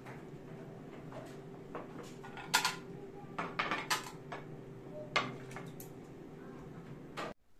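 Hard objects clinking and knocking together, a dozen or so irregular sharp clicks and clacks, over a faint steady hum.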